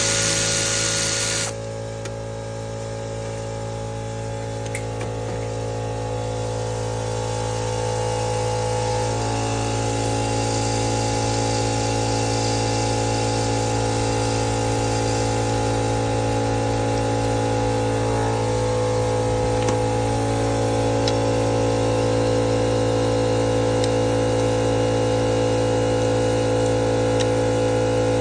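Steady mechanical hum of a running motor. A hiss over it cuts off about a second and a half in.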